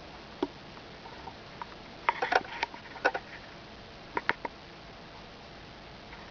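A squirrel chewing food, heard as a few sharp clicks and crunches: one about half a second in, a quick cluster about two to three seconds in, and three more just after four seconds.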